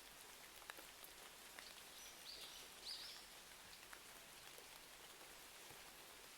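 Faint steady rain with a few sharp crackles of a wood fire. Two short, higher sounds come a little over two seconds in.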